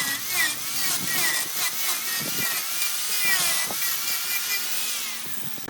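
Turning tool cutting into wood spinning on a wood lathe: a steady hiss of shavings over a wavering whine that rises and falls.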